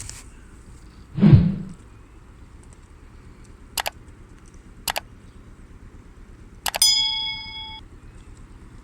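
A heavy thump about a second in, two sharp clicks, then a metal clink that rings for about a second before fading.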